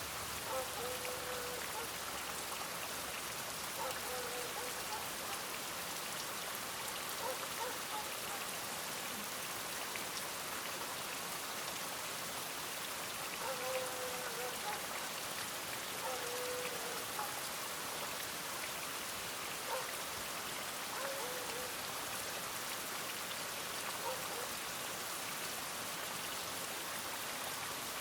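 Steady rain falling, with faint short pitched sounds every few seconds.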